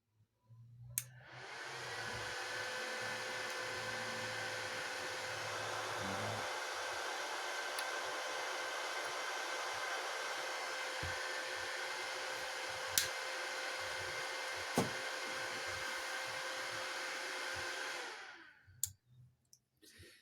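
Vega VW 320 welding inverter switched on for a test with its shorted power transistors removed: a click, then its cooling fan spins up and runs steadily with a faint whine, until it is switched off about 18 seconds in and the fan runs down, followed by a click.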